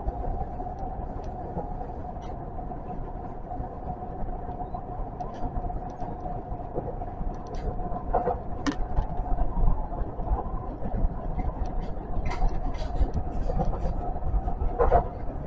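Osaka Metro 400 series train running at speed on track, heard from the front cab area: a steady rumble with a steady whine, and a few sharp clicks near the middle and end.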